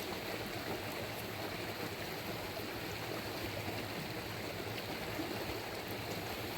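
Steady rush of water, an even hiss that holds without break.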